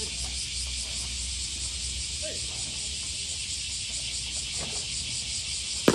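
Steady high drone of summer cicadas, pulsing about five times a second, with faint distant voices, and one sharp crack near the end.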